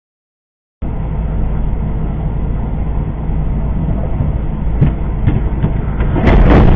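Dashcam audio of a vehicle driving: steady, loud engine and road rumble heard from inside, starting abruptly about a second in. A few sharp clicks follow, then a loud bang near the end.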